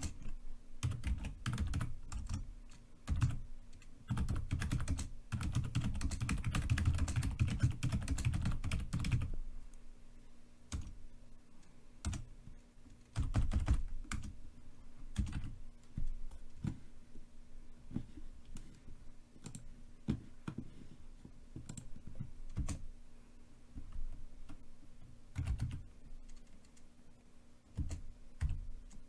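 Typing on a computer keyboard: a fast, dense run of keystrokes for about the first nine seconds, then slower, scattered keystrokes with pauses between them.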